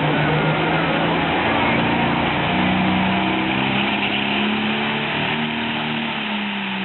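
International Harvester 1066 pulling tractor's diesel engine running hard under load on the pull. Its pitch climbs in steps about two and a half seconds in, holds high, then sags a little near the end.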